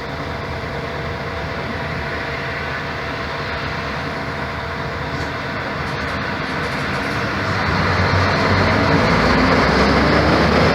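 Mercedes-Benz O-500MA articulated bus's Bluetec 5 diesel engine running under way with road noise, growing louder about three-quarters of the way through.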